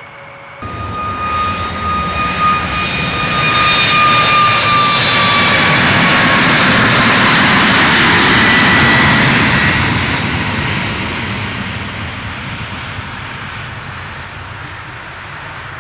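Jet airliner passing close by, its engine noise starting abruptly, swelling to a peak and then fading, with a whine that slowly falls in pitch as it goes past.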